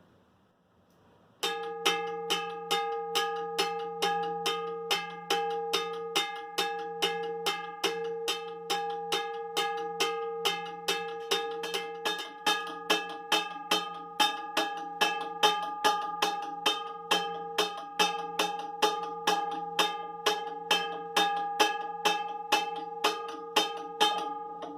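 US&S Teardrop railroad crossing bell ringing, starting about a second and a half in: a steady, rapid run of hammer strikes on its gong, about two to three a second, each leaving a ringing tone. The gong has an odd, flat-sounding ring.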